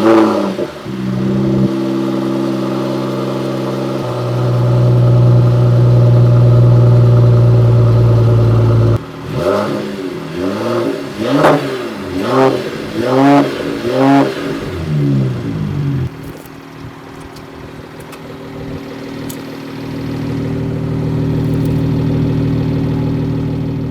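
Mercedes-AMG CLS 53's 3.0-litre turbocharged straight-six starting with a brief flare, then idling, running louder for a few seconds and dropping suddenly. It is then revved in about six quick throttle blips, each rising and falling, and settles back to a steady idle.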